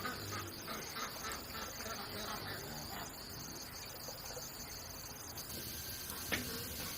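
A steady, high chorus of insects such as crickets or cicadas, with a single sharp click a little after six seconds in.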